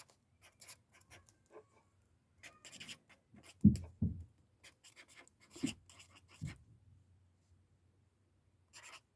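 Marker writing on journal paper in short, separate strokes, with a few dull thumps against the table in the middle, the loudest about four seconds in.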